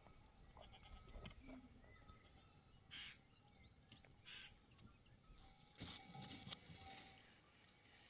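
Sheep and goats of a grazing flock heard faintly, with a few brief calls about three and four and a half seconds in among quiet outdoor ambience.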